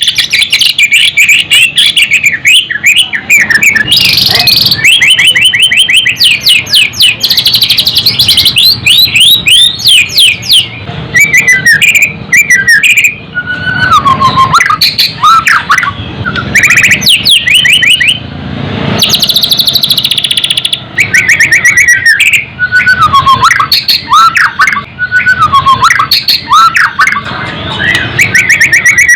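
White-rumped shama singing a loud, varied song of rapid trills and rattling chatter mixed with slurred whistles that fall in pitch.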